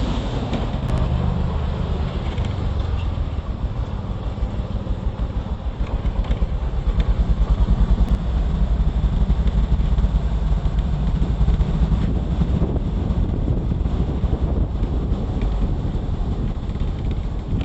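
A motor vehicle's engine running steadily while travelling, a low rumble with a fast pulsing beat, a little louder about halfway through, with some wind on the microphone.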